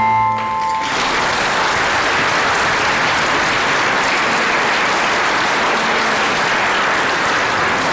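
Audience applauding, a dense steady clapping that starts about a second in as the last held notes of a mallet-percussion piece (xylophone and glockenspiel-like tones) die away.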